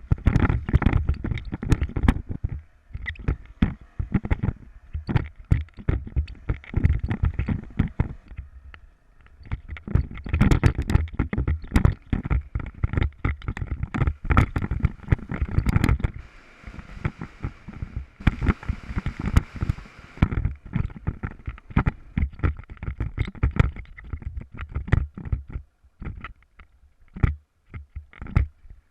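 Onboard sound of an off-road motorcycle on a rough trail: constant irregular knocking and rattling over bumps, with low rumble, easing off briefly a few times and thinning out to scattered knocks near the end.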